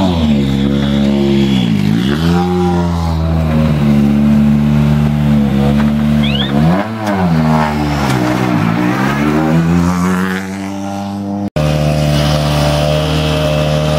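Rally car engine running hard, its pitch dropping and climbing again three times as the revs fall and pick up. There is a sudden cut about two thirds of the way through, after which the engine runs at a steady pitch.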